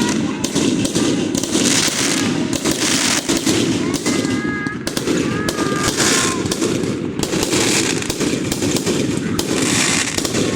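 Fireworks going off thick and fast, a dense continuous crackle of bangs. Short steady whistling tones cut through about four to six seconds in and again near the end.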